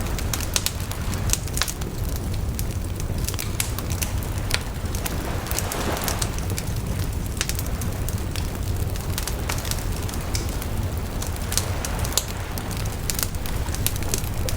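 Wood bonfire burning, with frequent sharp crackles and pops over a steady low rumble of the flames.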